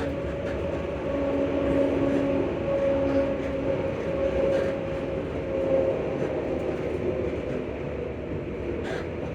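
ScotRail Class 334 electric multiple unit running between stations, heard from inside the carriage: steady wheel and running rumble with the traction motors' whine, two pitched tones that swell and fade in the first half.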